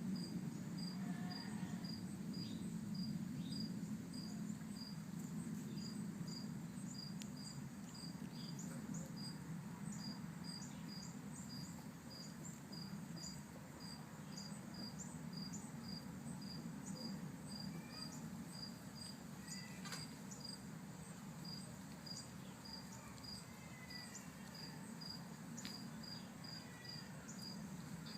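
A cricket chirping steadily, a little over one short high chirp a second, over a low steady hum, with a few faint squeaks here and there.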